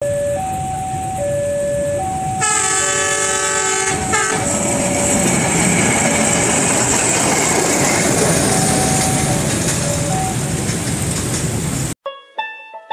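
Railway level-crossing warning alarm alternating between two tones, then a train horn blasts for about two seconds a couple of seconds in. The train passes with a steady loud rumble and rattle of wheels on rails, and the sound cuts off sharply near the end as plucked music begins.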